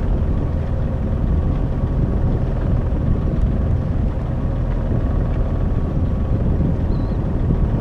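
Steady low rumble of a sailboat's auxiliary engine running under way, with faint steady tones over an even hiss.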